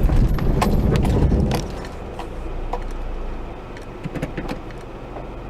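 Car road and engine noise from a dashcam recording, a loud low rumble that eases off about a second and a half in, with scattered clicks and knocks.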